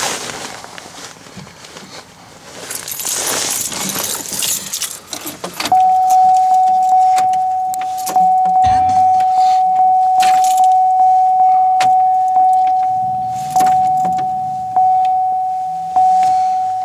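Keys jangling and rustling, then a car's dashboard warning chime: a single pitched electronic ding repeating about twice a second, slowing to about once a second near the end.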